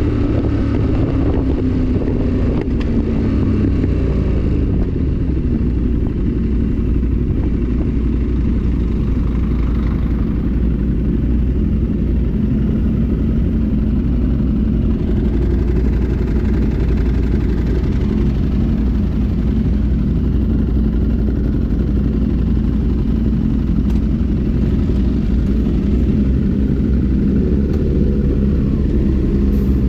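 A 1000 cc motorcycle riding along, heard from on board under heavy wind noise on the microphone; the engine note falls over the first few seconds as the bike slows, then holds steady.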